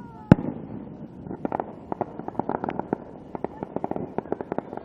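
A firework shell bursts with one sharp bang, then about a second later a rapid run of crackling pops, several a second, which is typical of crackle-effect fireworks.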